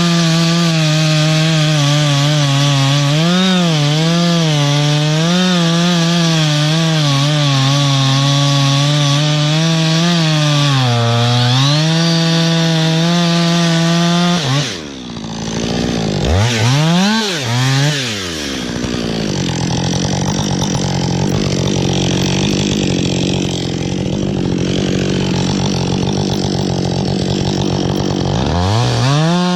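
Two-stroke chainsaw running at full throttle while cutting into a large tree, its pitch wavering as the chain bites into the wood. About halfway through it drops off the throttle and revs down and up a few times, then runs steadily at high speed again, with a short dip and rise near the end.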